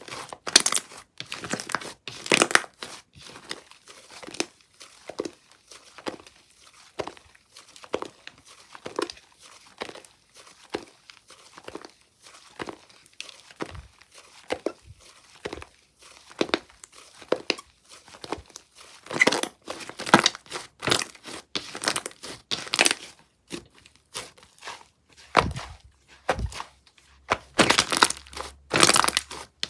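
A mousse-textured slime being squished, pressed and pulled by hand, giving irregular sticky crackles, pops and clicks, with a few louder bursts of crackling.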